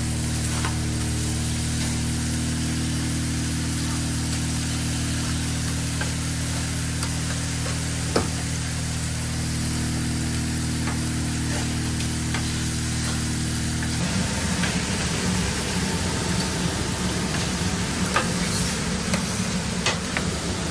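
Food being fried on a food-truck griddle, sizzling over a steady mechanical hum, with a few sharp clicks; about two-thirds of the way through, the hum gives way abruptly to a rougher low rumble.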